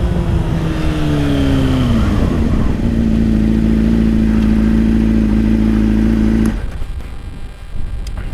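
Motorcycle engine with wind rush: the revs fall over about two seconds, then the engine runs at a steady pitch until the sound drops away abruptly about six and a half seconds in.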